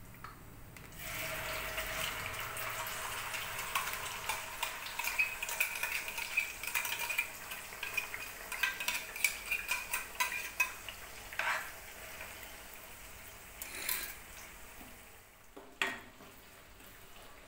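Onion-tomato paste sizzling as it hits hot oil in a kadhai, with a spoon clinking and scraping as the paste is scraped out of a steel bowl and stirred in. The sizzle starts about a second in and eases off in the second half, leaving a few separate clinks near the end.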